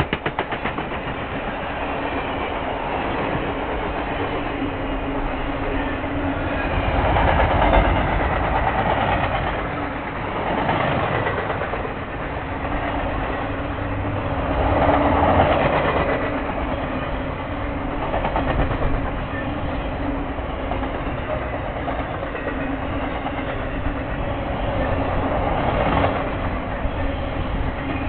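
A long circus train's coaches and flatcars rolling past close by: a steady rumble of wheels on rail with clickety-clack, swelling louder every few seconds as the cars go by.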